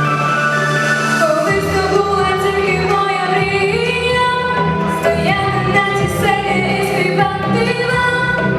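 A female voice singing a pop song over a backing track, the voice coming in about one and a half seconds in with held, wavering notes.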